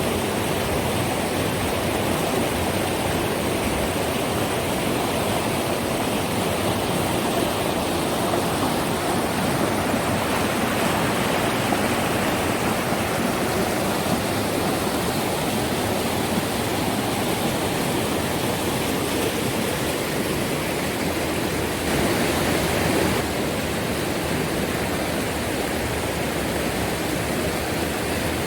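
Steady rush of fast-moving water from a waterfall or river rapids, briefly a little louder about three quarters of the way through.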